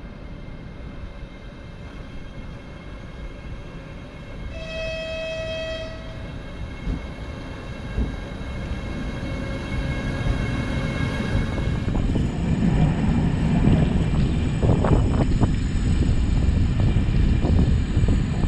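A train horn sounds once for about a second and a half. Then the rumble of a train's wheels on the rails grows steadily louder as it gets moving, with sharp clacks over the track near the end.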